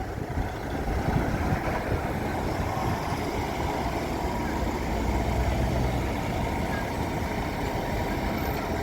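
Road traffic engines running in a steady low rumble, with a deeper engine drone swelling about five seconds in.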